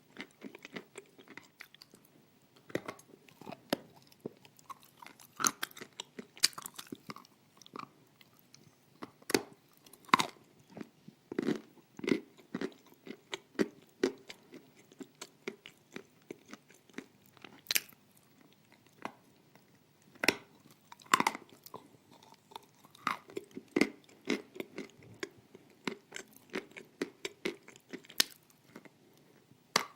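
Close-miked chewing and crunching of pieces of dry edible clay: irregular sharp crunches and bites with wet mouth sounds between them.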